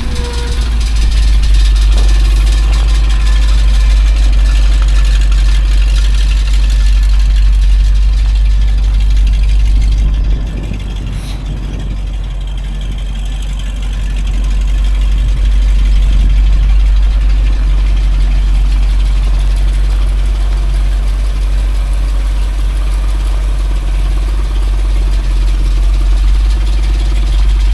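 1973 Chevrolet C65 truck engine running at idle with a steady low rumble; the sound drops about ten seconds in and builds back up a few seconds later.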